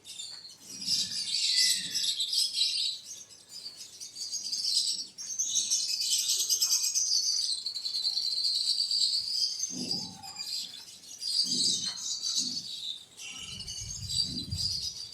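Small birds chirping and twittering, many calls overlapping in a continuous high chatter. A low rumble comes in near the end.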